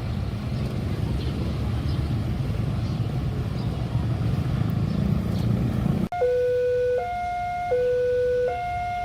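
Steady low rumble of a train passing a level crossing. About six seconds in it cuts abruptly to an electronic level-crossing warning alarm alternating between a higher and a lower tone, each held for under a second.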